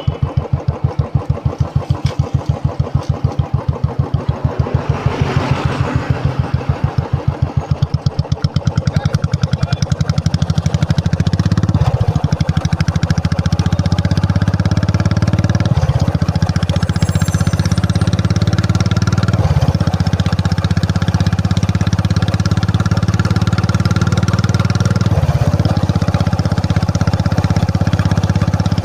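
Royal Enfield Classic 350's single-cylinder engine: at first a slow, even thump of separate exhaust beats, then from about ten seconds in a louder, steadier note as the bike gets going. The note drops briefly about four times, as at gear changes.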